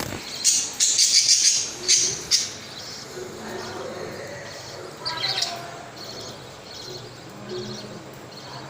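Budgerigars chirping: a run of loud, harsh high-pitched calls in the first couple of seconds, then softer short chirps repeating.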